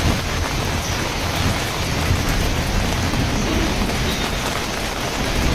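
Heavy rain pouring down in a storm, a dense steady hiss over a low rumble.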